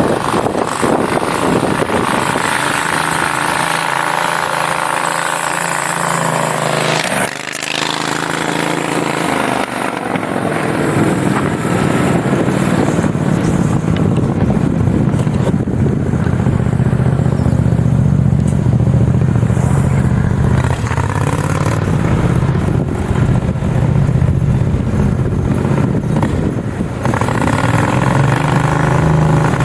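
Home-built mini bike's V-twin engine running under throttle, its pitch shifting up and down. It drops off briefly about seven seconds in, runs at a steadier, deeper note through the middle, and revs up again near the end.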